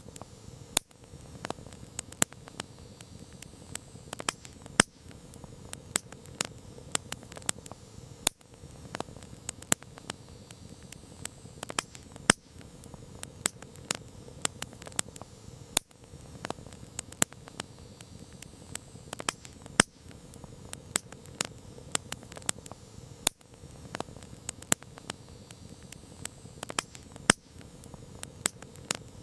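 Campfire crackling: irregular sharp pops and snaps, several a second with an occasional louder crack, over a low steady rush from the flames.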